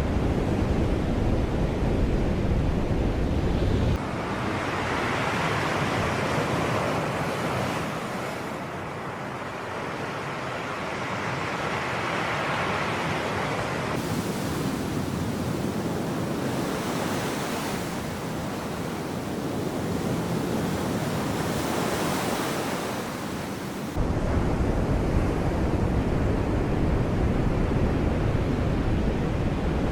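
Sea waves breaking and washing onto the shore, swelling and ebbing several times. A heavy low wind rumble on the microphone covers the first four seconds and the last six, cutting in and out abruptly.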